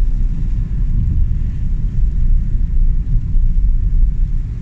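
Loud, steady low rumble with a fluttering, uneven loudness and no distinct events.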